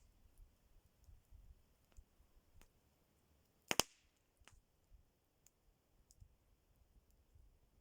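Campfire wood crackling: scattered faint ticks and one loud sharp pop near the middle, followed by a smaller one.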